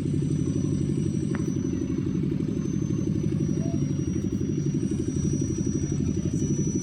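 Heavy vehicle's engine running steadily at a low, even speed, a pulsing rumble with a faint high whine above it.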